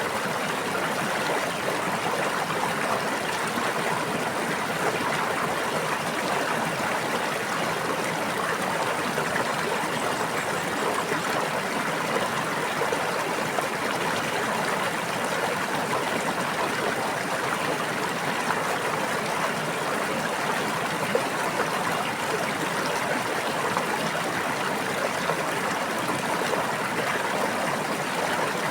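A stream babbling: steady running water over stones, unchanging throughout.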